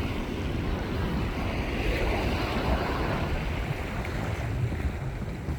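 Wind buffeting the microphone over the steady wash of small waves on shallow water.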